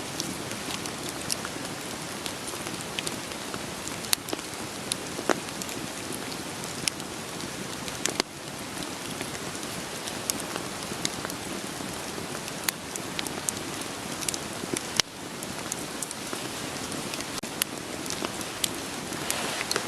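Wood fire crackling and popping with scattered sharp snaps, over a steady hiss of rain.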